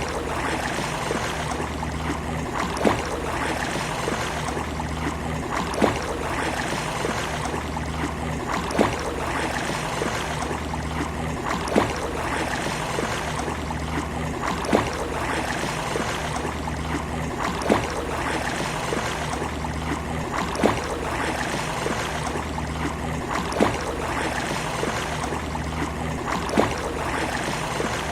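Sea water washing and lapping at the shore, a steady watery rush, with a sharp click about every three seconds; the whole pattern repeats at that spacing, as in a short looped recording.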